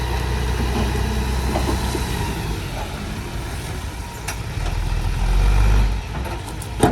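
Dump truck engine running at a steady low hum, rising to a louder low rumble for about a second near the end, followed by a single sharp knock.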